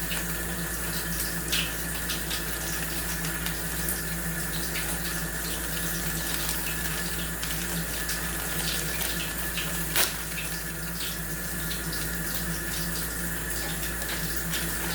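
Chicken and vegetables frying in a pan, a steady sizzle with a low hum underneath and one sharp click about ten seconds in.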